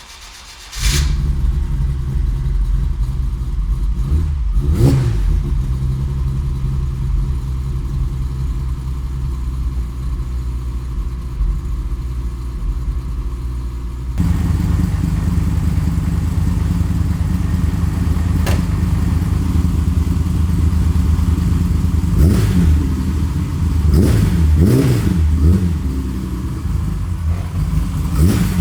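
Euro 1983 BMW E30 323i's 2.3-litre straight-six catching on a cold start, then idling. There is a single short throttle blip about five seconds in, the idle gets louder about halfway through, and several more quick blips come near the end.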